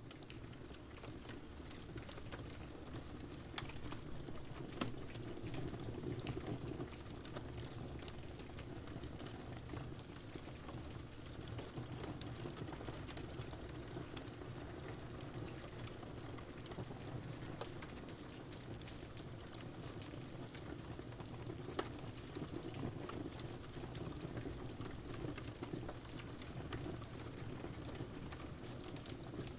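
Steady rain mixed with a crackling wood fire: an even wash of rain with scattered sharp pops and snaps, the loudest a few seconds in and again about three quarters of the way through.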